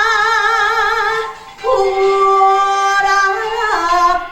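A woman singing solo, holding two long sustained notes with a wide, slow vibrato, with a brief breath between them about a second and a half in.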